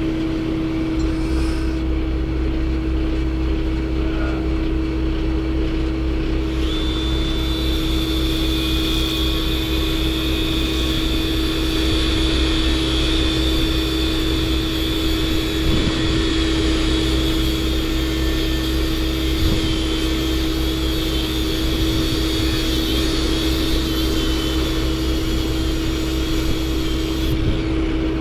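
Truck engine running steadily: a constant, even drone with a steady low hum. A faint high whine joins it a quarter of the way in and fades near the end.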